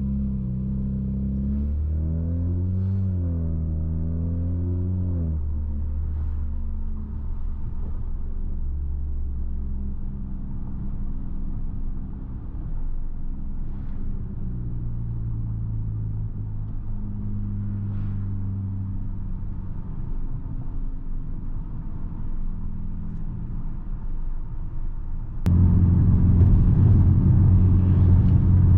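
Straight-piped 2020 Nissan Altima's exhaust droning, heard from inside the cabin with the rear windows down. Its pitch rises and dips over the first few seconds, then settles into a steady drone. About 25 seconds in it suddenly gets louder.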